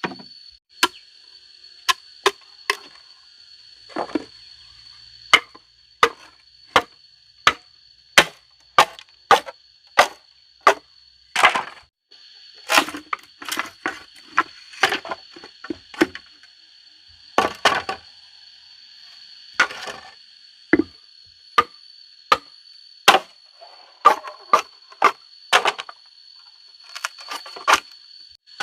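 Wood being chopped: repeated sharp chops, irregular at about one to two a second with short breaks, over a steady high-pitched whine in the background.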